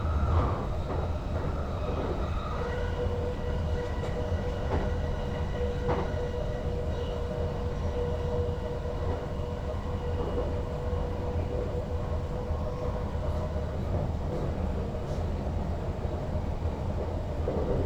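NS Sprinter Lighttrain electric multiple unit running along the track, heard from inside the driver's cab: a steady low rumble with occasional faint clicks and a steady electric hum. A few seconds in, a higher tone gives way to a lower one.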